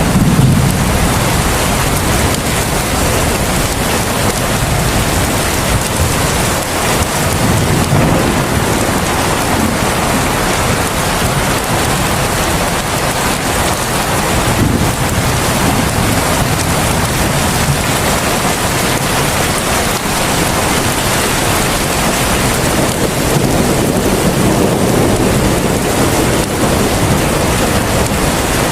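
Heavy rain falling in a steady, loud downpour, with low rumbles swelling up now and then, about three times.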